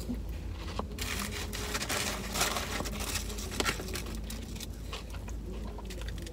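A man chewing french fries close to the microphone, with small clicks and rustles, over a steady low hum.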